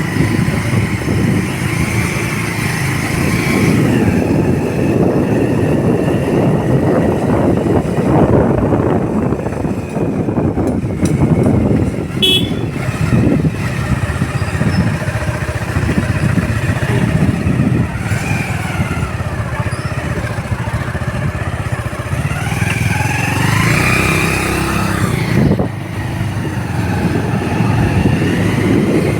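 Motorcycle running on the move, its engine mixed with steady road and wind noise. A short horn toot about twelve seconds in, and other horn-like tones from traffic later on.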